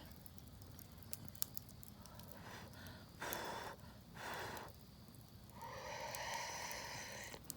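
A person breathing out audibly three times: two short breaths, then a longer, heavier exhale near the end.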